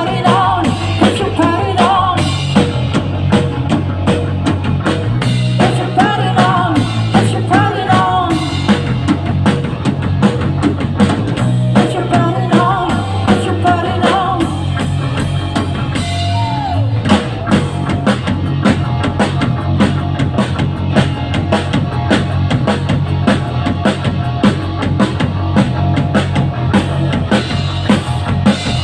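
Rock band playing an instrumental passage: drum kit keeping a steady beat under a heavy bass line and electric guitar, with a wavering melody line that comes and goes in the first half.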